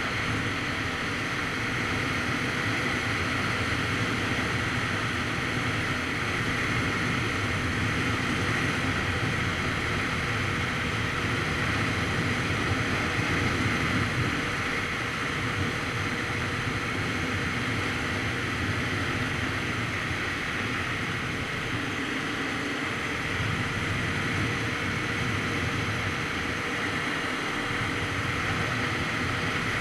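Steady wind noise rushing over the microphone of a phone mounted on a Kawasaki Z900RS Cafe at riding speed, with the bike's inline-four engine running steadily beneath it.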